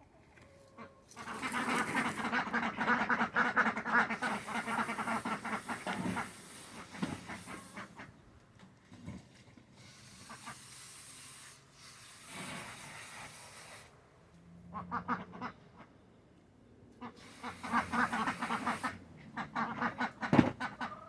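Domestic ducks quacking in two long noisy bouts of rapid calling, with a hiss of running water between them.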